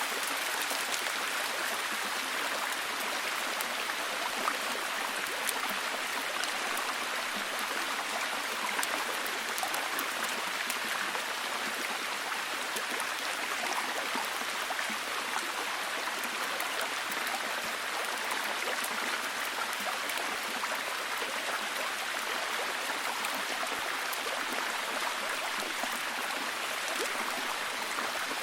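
Steady, heavy rain falling, an even hiss with many fine droplet ticks and no change in intensity.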